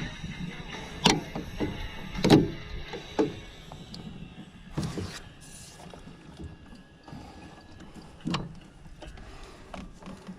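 Scattered hollow knocks and clunks, about five over several seconds, the loudest two seconds in, of gear being handled in a small boat, with a faint steady hum fading away.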